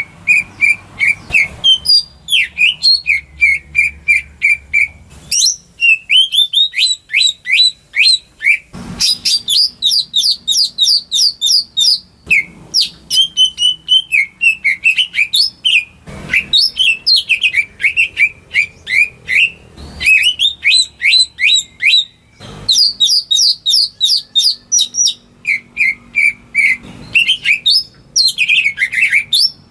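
A green leafbird (cucak ijo) singing a long, varied song of rapid, repeated chirps and sweeping whistles, switching to a new phrase every few seconds with short pauses between.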